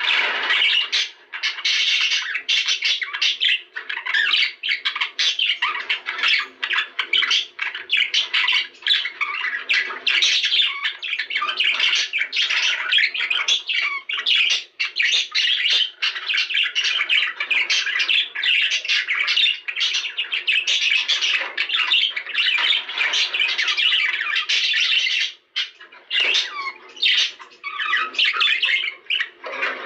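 Budgerigars chattering and squawking continuously in a dense, rapid warble, with a brief pause about 25 seconds in.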